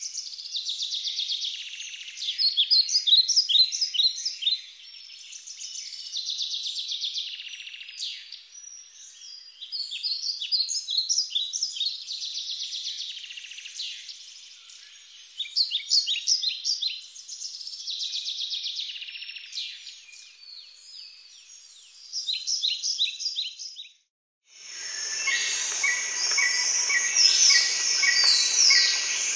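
Songbirds singing in repeated phrases of quick chirps and trills, a few seconds apart. About 24 seconds in the sound cuts out briefly, and a denser chorus of bird calls over a steady hiss takes over.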